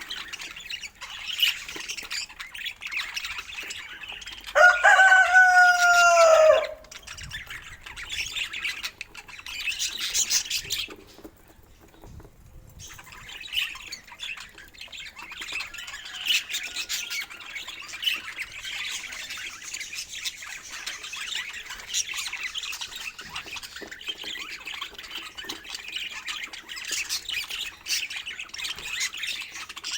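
Budgerigars chattering and warbling continuously, with a brief lull about eleven seconds in. About four and a half seconds in comes a single louder call lasting about two seconds, lower and steadier in pitch than the chatter.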